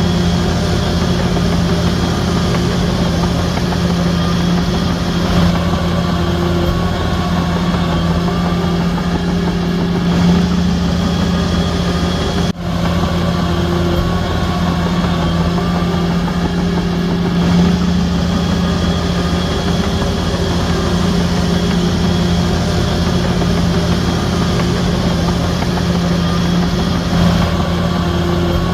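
Shantui DH17C3 crawler bulldozer's diesel engine running steadily, with one very brief dropout about twelve seconds in.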